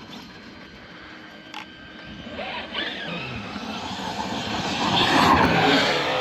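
Large brushless electric RC car running hard, its motor whine rising as it speeds up and growing louder to a peak about five seconds in.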